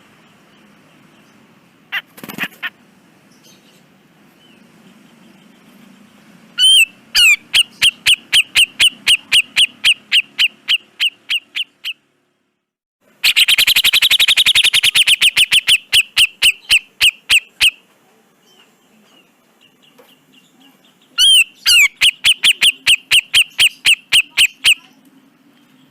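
Cucak jenggot (grey-cheeked bulbul) calling in three runs of rapid repeated notes, about four or five a second, each run a few seconds long. The middle run is denser and harsher. A faint low hum fills the pauses between runs.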